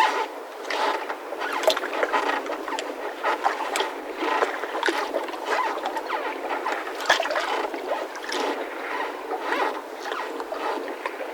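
Yacht mooring ropes creaking and squeaking under load as the moored boats shift. The squeaks come irregularly, with a few sharp knocks among them.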